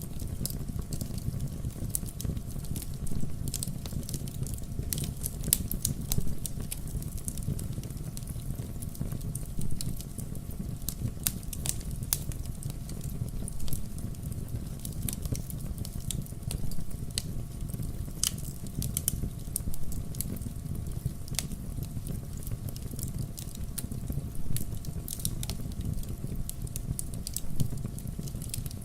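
Wood fire burning: irregular sharp crackles and pops of the logs over a low, steady rumble of flames.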